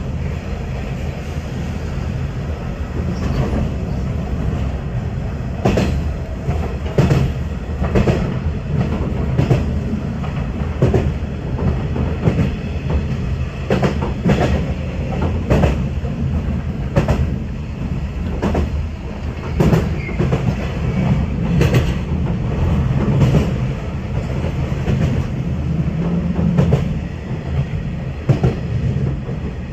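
JR West 117-series electric train running, heard from the front cab. A steady low rumble is broken by sharp wheel clacks over rail joints, about one every second and a half from about six seconds in.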